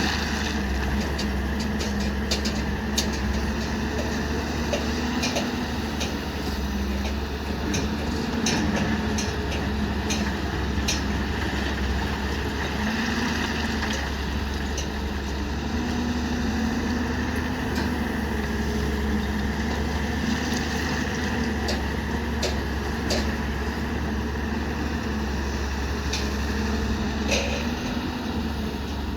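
Heavy engine running steadily, with scattered clicks and knocks over it.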